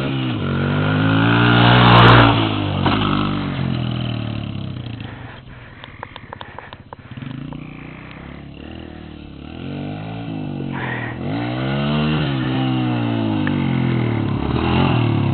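Dirt bike engine revving up and down, loudest about two seconds in. It drops to a quieter stretch with a few sharp clicks near the middle, then revs up and down again.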